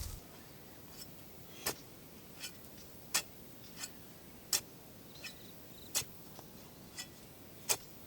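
A regular series of short, sharp clicks or taps, about three every two seconds, alternating louder and softer, with a faint high chirp about five seconds in.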